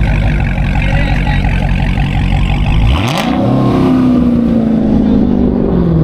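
A car engine: a loud, low rumble, then about halfway through it revs up, its pitch rising sharply and then slowly falling away.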